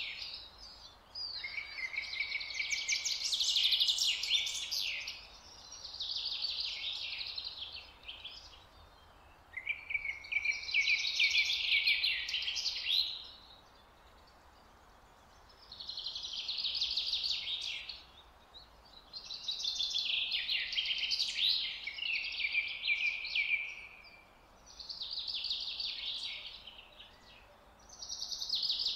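A bird singing: about seven phrases of fast, high chirping notes, each two to four seconds long, with short pauses between, over a faint steady background hiss.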